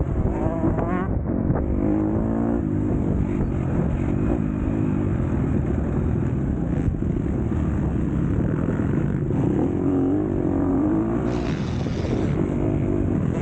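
MX2 motocross bike engine running hard and revving, its pitch rising and falling with the throttle.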